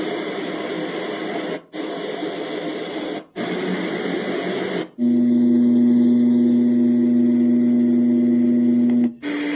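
White noise machine being switched from one preset sound to the next. First come several short stretches of rushing noise, each cut off by a brief dropout. About five seconds in it switches to a steady pitched hum, and another sound with a slightly higher hum starts near the end.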